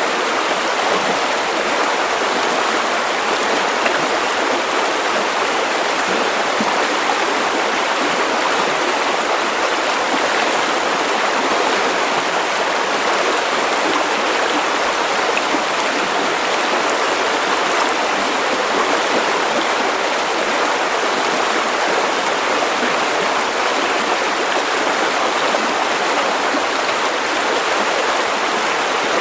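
River water running over stones, a steady rushing and burbling.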